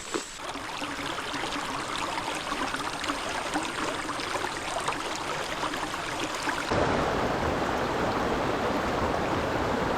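Heavy tropical rain falling steadily, with many small drop impacts ticking through the hiss. About two-thirds of the way in it cuts abruptly to a louder, denser wash of rain.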